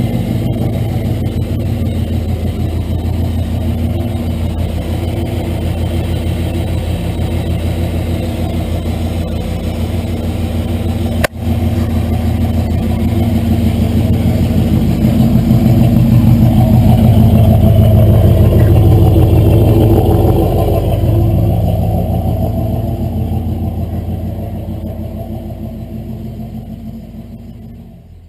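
1964 Chevrolet C20 truck's engine idling. About eleven seconds in there is a brief click; the engine then grows louder, holds for several seconds, and fades steadily away near the end.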